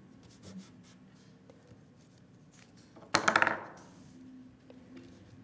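Paper craft pieces and supplies being handled on a tabletop during gluing, with a few faint ticks and a brief loud burst of rapid clicks about three seconds in.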